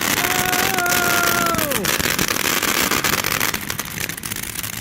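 Ground fountain firework spraying with a steady crackling hiss. Over it a whistle-like tone holds its pitch, then slides down and dies away about two seconds in.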